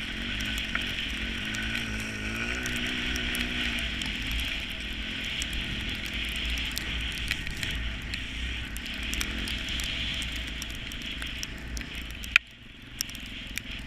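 A vehicle driving on a snowy road: steady engine and road noise with a low rumble, a hiss and scattered small crackles. A sharp click comes near the end, after which the noise is quieter.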